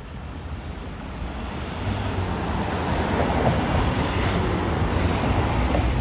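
Steady rushing wind with low buffeting on the microphone, getting louder about two seconds in.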